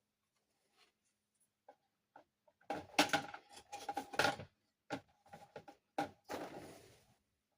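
Small plastic dollhouse furniture pieces and their packaging being handled: scattered light clicks and taps, with louder stretches of rustling and clattering about three seconds in and again about six seconds in.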